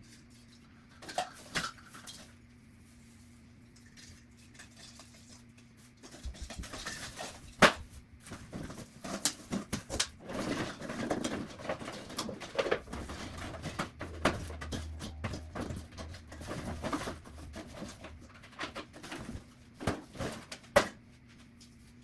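Household clatter of things being handled and put away while cleaning: scattered clinks, knocks and rustling, sped up to double speed. It is sparse at first and gets busy after about a quarter of the way in, running until shortly before the end.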